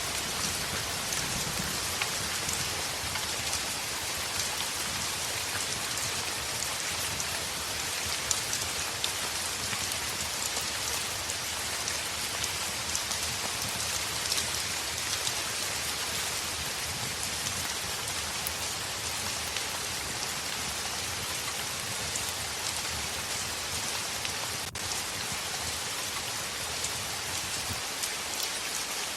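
Steady heavy rain on a window: a dense, even hiss with scattered sharp ticks of drops striking.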